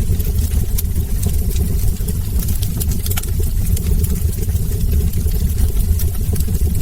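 Wood fire burning in a fireplace: irregular crackles and pops from the logs over a steady low rumble of the flames.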